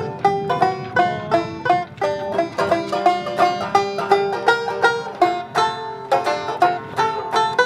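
Background music played on a 1925 Oriole tenor banjo: a quick, steady run of picked notes.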